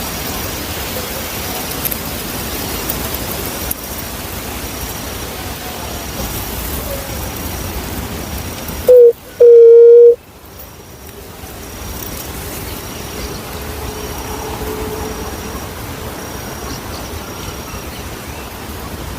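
Juriti (Leptotila dove) giving one loud, low, hollow coo about nine seconds in: a short note, then a longer held one at the same pitch. A steady hiss of background noise runs under it.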